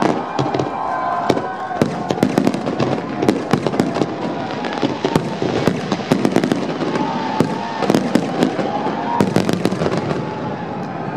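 Fireworks display: aerial shells bursting and crackling in a dense run of bangs, many a second, thinning a little near the end.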